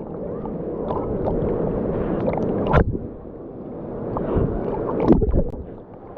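Waterfall water rushing close by, swelling and easing, with a few sharp knocks about a third of the way in and again near the end.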